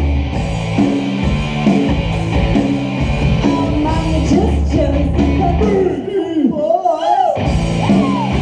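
Live rock band playing loudly, with guitar, bass, drums and singing. About six seconds in, the band drops out for about a second and a half, leaving one wavering, bending note, then comes back in together.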